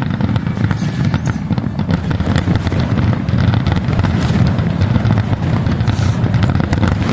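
Fireworks booming and crackling: a loud steady rumble with many small pops over it.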